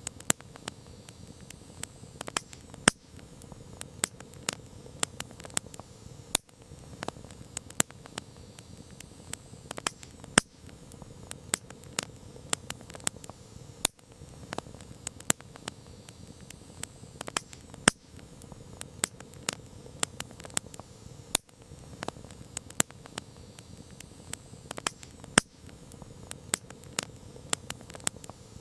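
Wood campfire crackling: a dense, irregular stream of sharp pops and snaps, several much louder than the rest, over a soft steady noise of the burning fire.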